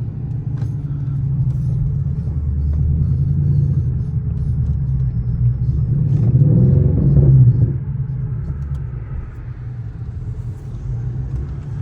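Straight-piped Infiniti M56's 5.6-litre V8 exhaust, a deep rumble that builds with rising revs to its loudest about seven and a half seconds in, then drops back suddenly.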